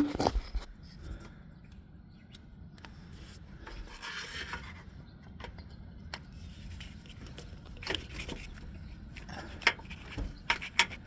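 Hand work on the underside of a truck: scattered small clicks and knocks of tools and metal parts, with rubbing and scraping in between. The loudest knocks come right at the start and again near the end.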